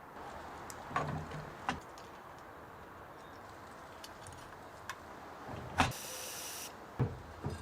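Scattered clicks and knocks of small parts being handled, the sharpest near six seconds in, followed straight away by a short burst of hiss. This comes during the rebuild of the F150's carburetor.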